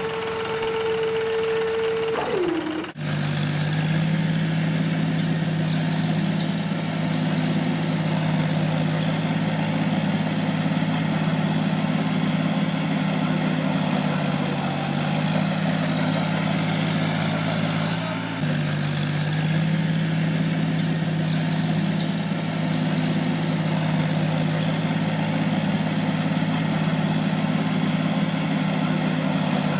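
A steady higher motor hum that drops in pitch and stops about three seconds in, then a steady low engine drone of a mini tractor running, with one brief dip in the middle.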